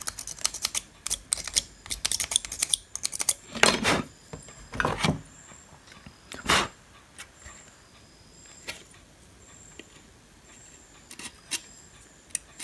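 Rapid small metallic scratching and clicking as corroded capacitor leads are scraped clean with a blade before soldering, since oxidised leads will not take solder. A few louder rasping strokes come in the middle, then only sparse light clicks.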